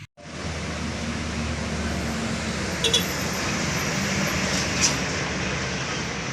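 Heavy truck engine running under load on a steep uphill climb, with steady road noise and two short, sharp high-pitched sounds about three and five seconds in.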